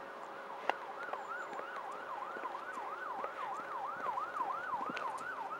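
Level crossing audible warning alarm sounding its electronic yelp, a tone sweeping down and up about three times a second, which shows the crossing is closed to road traffic for an approaching train. A single sharp click comes just under a second in.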